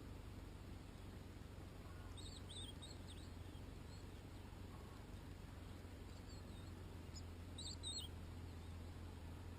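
European goldfinch giving short, high twittering call notes in a few brief bouts, about two seconds in and again near the end, faint over a steady low background noise.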